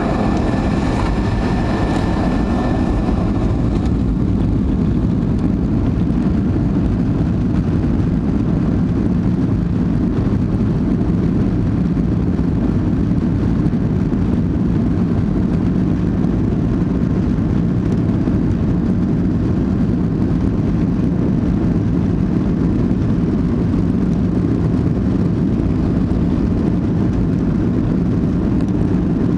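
Airliner's jet engines at takeoff: a steady low rush of engine and air noise. A higher whine fades out in the first few seconds.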